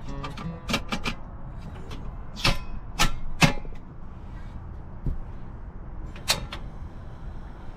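Sharp metallic clicks and clanks of a gas cylinder being swapped on a portable gas stove, about eight in all, the loudest between two and three and a half seconds in, over a steady low hum. The old cylinder is being replaced because the gas burns weakly in the cold.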